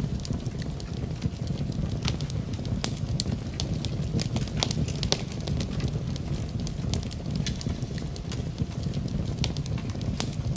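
Wood fire in a fireplace crackling, with frequent sharp pops and snaps over a steady low rumble.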